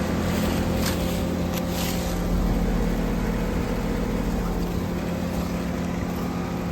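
2023 Amana ASZH5 heat pump running: a steady hum of the compressor and fan with a low rumble, easing off slightly near the end.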